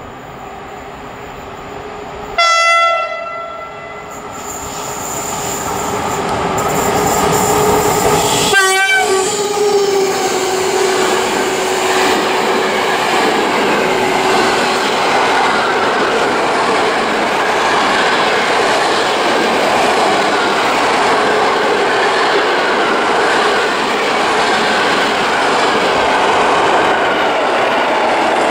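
An EP09 electric locomotive sounds its horn in two short blasts, about two and a half seconds in and again near nine seconds, the second wavering in pitch as it closes in. It then passes at speed hauling a long rake of passenger coaches, with a steady loud rumble and clatter of wheels on rail. Near the end an EN57 electric multiple unit runs past.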